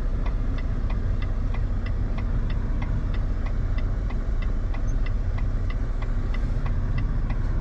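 Semi-truck's diesel engine running at low revs under a slow reverse manoeuvre, heard from inside the cab, with a steady, regular ticking about three times a second.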